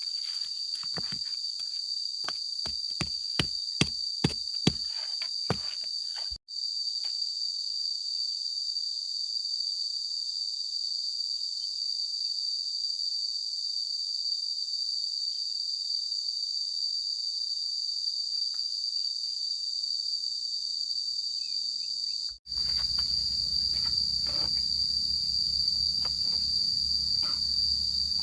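A steady, high insect chorus drones on, breaking off for an instant twice. In the first few seconds there is a quick run of sharp knocks, and near the end a low rumble joins in with a few more knocks.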